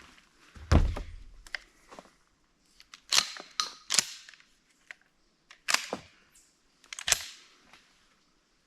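A series of sharp clicks and knocks, about seven spread over several seconds. The first and loudest comes with a low thump.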